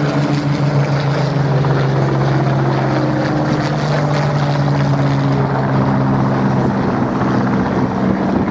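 Propeller aircraft engines droning steadily, with several low tones that shift slightly in pitch.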